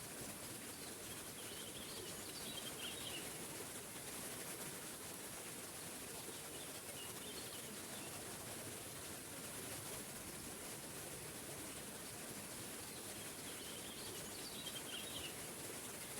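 Small waterfall rushing steadily. A songbird chirps a short phrase three times over it: near the start, in the middle, and again near the end.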